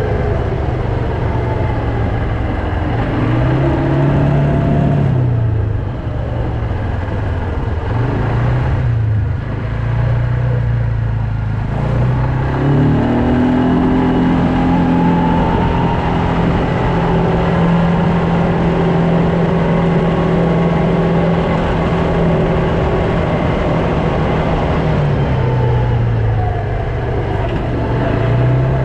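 Quad bike (ATV) engine running under way, its pitch rising and falling as the throttle is opened and eased several times, with a long steady stretch at higher speed in the middle.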